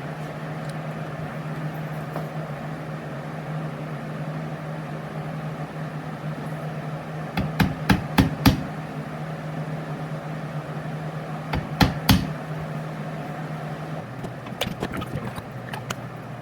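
Hammer blows on a chisel, metal on metal: a quick run of four sharp strikes about halfway through, then three more a few seconds later. A steady machine hum runs underneath and stops about two seconds before the end.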